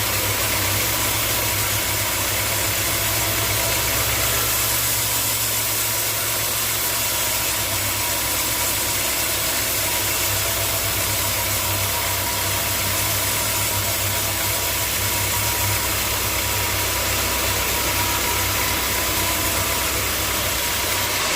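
Sawmill machinery running steadily: a continuous engine hum with a steady whine and hiss over it.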